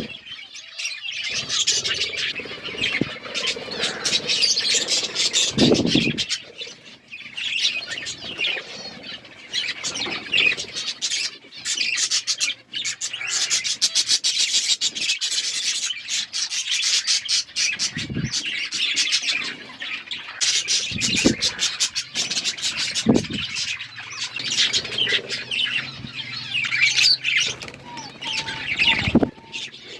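Budgerigars chirping and chattering continuously in rapid, overlapping calls, with a few short dull thumps here and there.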